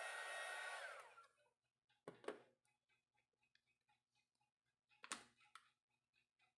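Handheld electric hot-air heat gun blowing with a steady whir and hiss, then switched off about a second in, its pitch sliding down as it winds down. Two short knocks follow, about three seconds apart, with faint small clicks in between.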